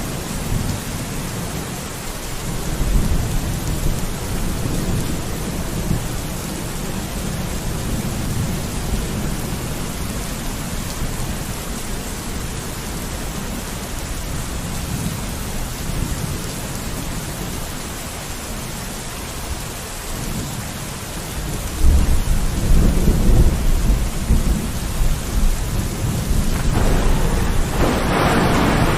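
Steady rain with low rolling rumbles of thunder; the rumbling grows louder about three-quarters of the way through, and the rain hiss surges briefly near the end.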